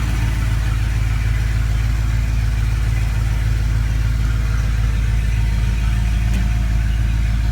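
1990 Dodge D150's 5.2-liter V8 idling steadily.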